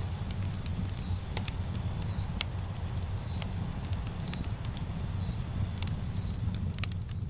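Bonfire burning with a steady low rumble and scattered sharp crackles and pops. A short high chirp repeats about once a second throughout.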